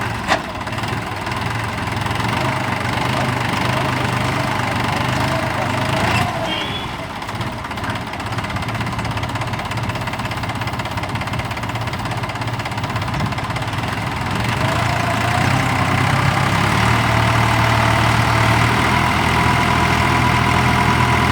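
Tractor engine running steadily, driving a mounted drill machine, with a sharp click near the start; about fifteen seconds in the engine picks up speed and gets louder.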